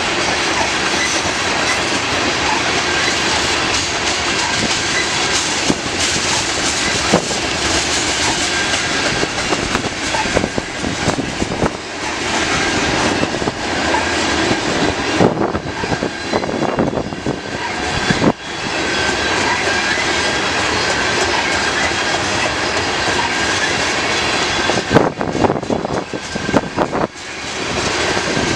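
CN mixed freight train rolling past: a steady rumble and rattle of steel wheels on the rails, broken by scattered clanks and knocks.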